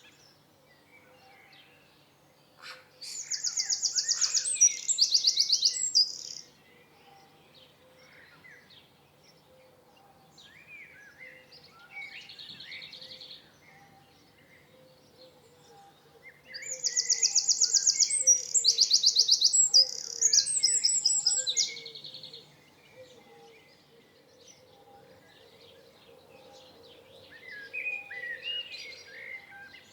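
Songbirds singing: two loud bursts of song, each made of fast high trills lasting a few seconds, with quieter chirps between them.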